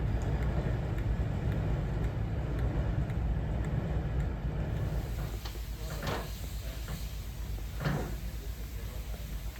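A Class 08 diesel shunter's engine running with a steady low rumble. About five seconds in, the rumble gives way to quieter background with two brief sounds about two seconds apart.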